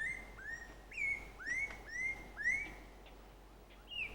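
A bird calling in forest: about six short whistled notes, each sliding up and then holding briefly, about two a second, then a single falling note near the end.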